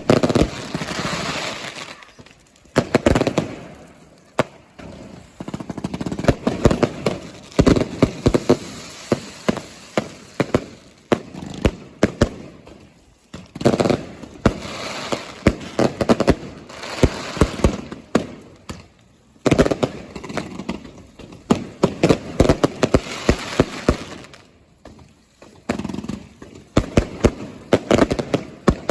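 Fireworks going off in quick succession: clusters of many sharp bangs and crackles, with short lulls every few seconds.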